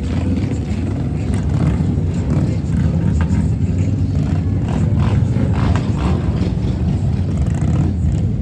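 Engines of slow-moving parade vehicles running as they pass, a steady low rumble.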